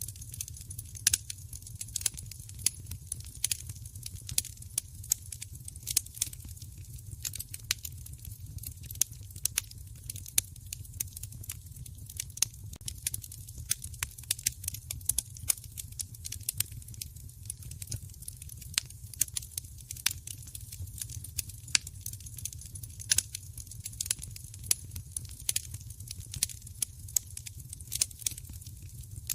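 Fireplace fire crackling: frequent, irregular sharp pops over a steady low rumble.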